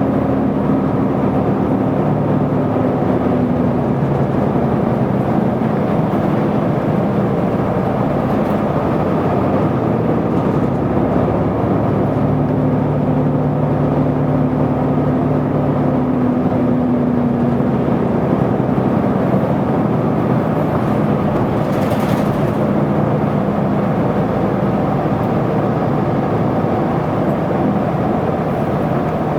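Isuzu Erga city bus under way: its diesel engine runs over steady road noise. The engine note holds and then drops away twice as the bus pulls and then eases off. A brief high sound comes about 22 seconds in.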